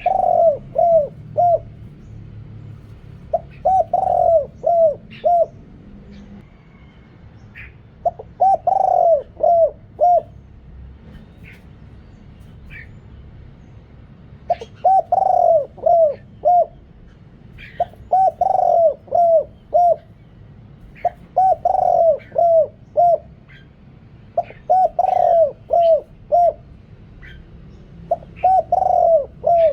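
Spotted dove (นกเขาใหญ่) with a deep, big voice cooing its song over and over. Each phrase is a quick run of four or five coos, repeated every three to four seconds. Faint chirps from other small birds can be heard between the phrases.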